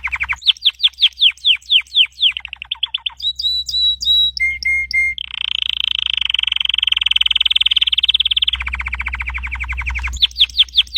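Red canary singing a long rolling song: a run of quick downward-sweeping notes, a few short clipped whistles, then a long fast high trill that drops into a lower buzzing trill, before the sweeping notes come back near the end.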